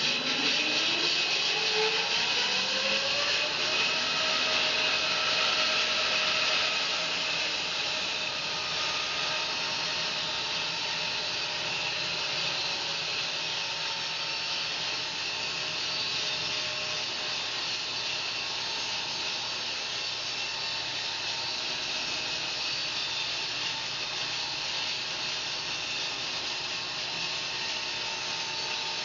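Home-built bandsaw sawmill running and sawing through fir: a whine that rises in pitch over the first few seconds as it comes up to speed, then a steady whine and hiss as the blade cuts.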